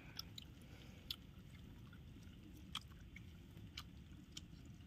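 Faint chewing of crisp fried pakoras, with a few small, sharp crunchy clicks scattered over a quiet background.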